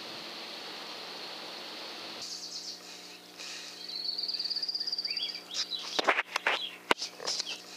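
A steady hiss, then after about two seconds small birds singing, including one high trill lasting just over a second. Several sharp clicks come near the end.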